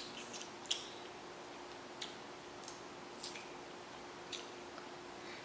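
A few faint, scattered clicks and light squishy taps from handling boiled seafood, over a faint steady hum.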